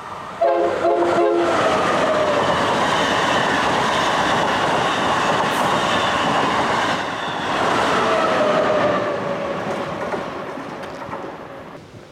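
Amtrak Acela Express high-speed trainset sounding two short horn blasts, then passing close at speed with a loud rush of wheels on rail and a whine that falls in pitch as it goes by, fading away near the end.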